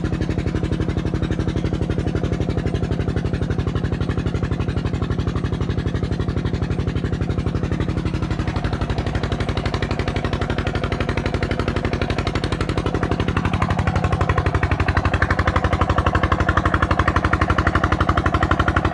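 Petter-type single-cylinder diesel engine driving a tube well pump, running with a steady, fast, beating exhaust rhythm. About 13 seconds in, a tone falls in pitch and a higher rushing noise grows as the sound gets slightly louder.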